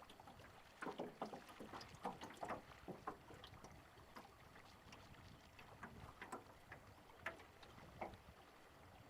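Water splashing and lapping against a small dinghy's hull, in short irregular splashes over a faint background of moving water.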